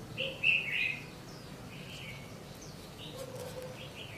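Birds chirping, with a louder burst of chirps about half a second in and scattered shorter chirps after.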